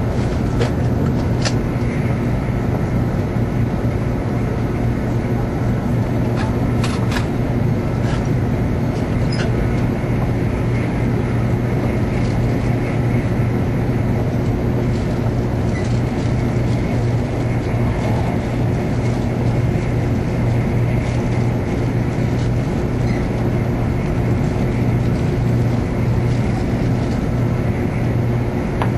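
Tokaido Shinkansen Hikari train running at speed, heard from inside the passenger cabin: a steady rumble with a strong low hum, and a few faint clicks in the first ten seconds.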